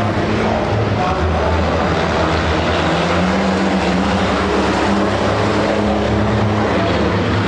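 Racing trucks' diesel engines running hard: a loud, steady engine sound with low tones that shift slightly as the trucks pass and change speed.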